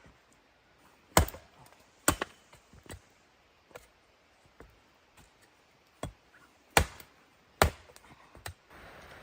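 Sharp chopping strikes with uneven gaps between them: four loud blows and several lighter ones.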